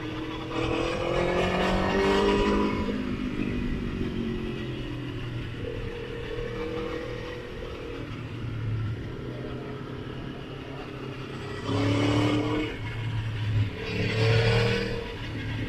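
Motorcycle engine pulling hard with a rising pitch over the first couple of seconds, then running steadier. Several short bursts of throttle come near the end.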